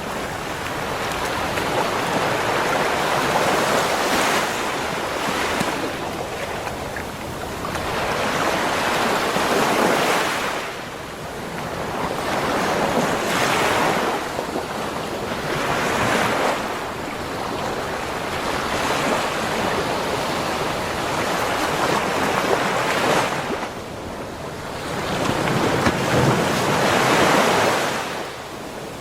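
Ocean waves breaking on a beach shore: a steady wash of surf that swells and falls back every few seconds.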